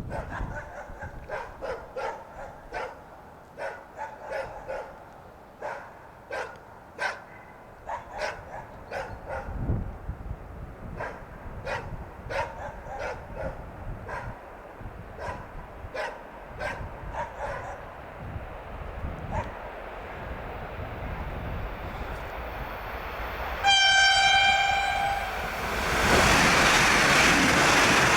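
A dog barks repeatedly for the first two-thirds. Then the Allegro high-speed electric train sounds its horn in one steady blast of about a second and a half, and a moment later rushes past at speed with a loud rushing roar of wheels and air.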